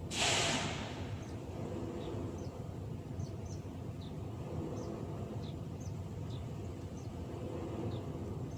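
Outdoor ambience of a steady low rumble, with a small bird giving short, faint, falling chirps every second or so. A loud brief hiss, like a sharp breath close to the microphone, comes right at the start.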